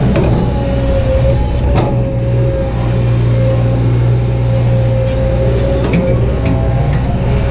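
Kobelco SK200-8 excavator's diesel engine running steadily while digging, with a steady high tone over the engine drone and a few sharp clunks from the machine working.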